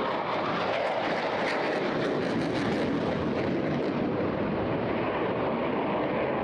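Eurofighter Typhoon's twin Eurojet EJ200 turbofans running at high power in a display manoeuvre: a dense, steady rush of jet noise with a ragged crackle between about one and four seconds in.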